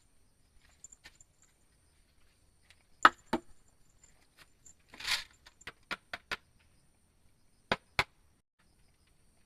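Sharp knocks and clicks in small groups against a quiet background: two loud knocks about three seconds in, a brief rustle near the middle followed by a quick run of lighter clicks, and two more knocks near the end.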